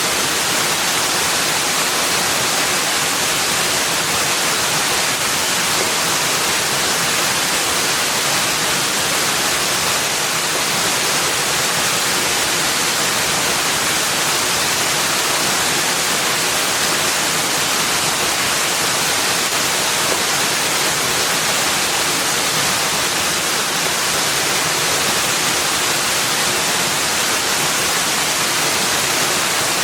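Steady, even rushing noise, heaviest in the upper range, with no separate calls, drops or other events and no change in level.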